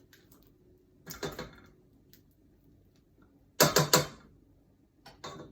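Kitchen utensils and dishes knocking together: a short clatter about a second in, then a louder run of three or four quick knocks, then a couple of lighter ones near the end.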